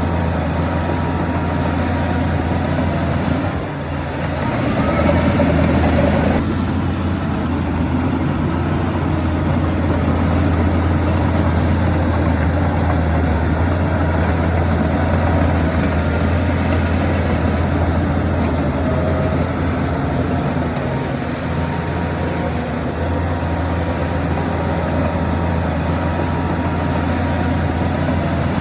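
Heavy diesel earthmoving machinery running steadily with a deep low hum. The sound changes abruptly about six seconds in.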